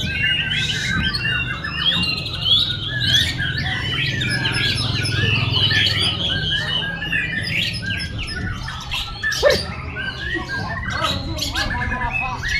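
White-rumped shama (murai batu) singing a rapid, varied song of whistled phrases, over a steady low hum.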